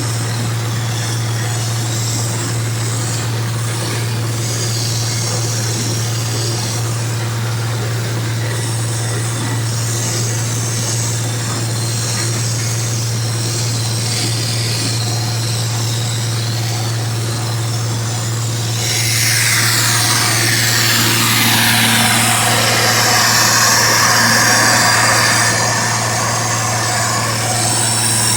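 Allis-Chalmers One Ninety XT turbocharged six-cylinder diesel tractor engine running steadily while pulling a disk through wheat stubble. About two-thirds of the way in it grows louder, with a rush of higher-pitched noise added, which then eases off near the end.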